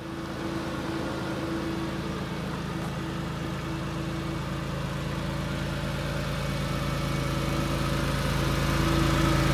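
Porsche 996 911's flat-six engine idling steadily, growing gradually louder toward the end.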